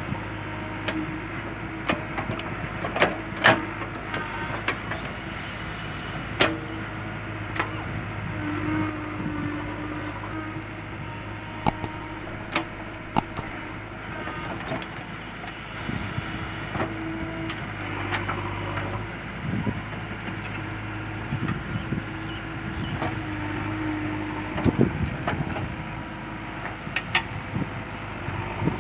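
JCB 3DX backhoe loader's diesel engine running steadily under digging work, with scattered sharp clanks and knocks from the bucket and arm.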